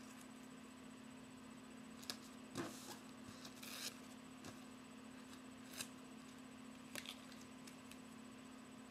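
Faint, scattered rustles and soft taps of duct tape strips being handled and smoothed down by hand, over a low steady hum.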